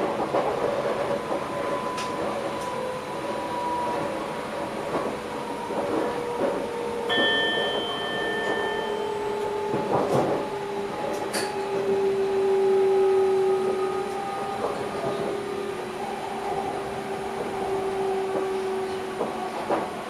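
Electric passenger train running, heard inside the driver's cab: rail rumble with a drive whine of several tones that slowly fall in pitch. A short two-tone electronic beep sounds about seven seconds in, and there are a few sharp clicks.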